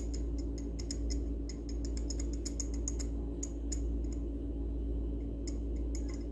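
Irregular light clicks and ticks, several a second, from the blender motor's shaft being rocked by hand in its worn bush (the sleeve bearing used instead of a ball bearing), the play letting it knock. A steady low hum underneath.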